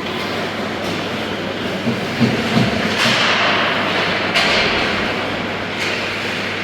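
Ice hockey play in an echoing rink: a steady hiss of skates scraping the ice, cut by sharp knocks of sticks and the puck, about four in all, that ring out through the arena.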